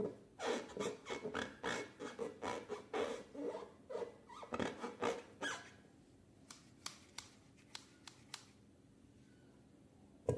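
Slime being squeezed and kneaded by hand: a quick, irregular run of sticky squelches, several a second. After a short pause come about six sharp clicks, and a single loud snap at the very end.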